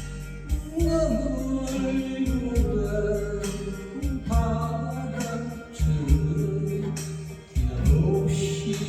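A Korean ballad-style song: sung vocals over a steady drum beat and bass.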